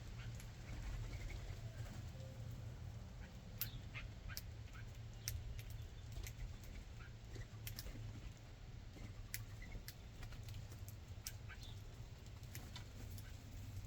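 Backyard ambience at a ground bird feeder: a steady low rumble with scattered sharp ticks and a few faint, short bird calls.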